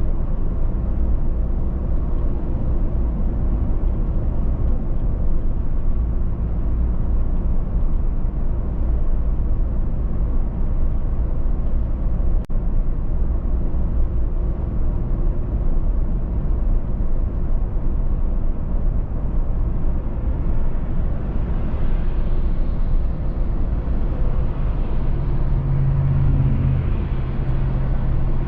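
Car driving at a steady speed on the highway: a continuous low rumble of tyres and road noise with engine hum. Near the end a low steady hum joins in.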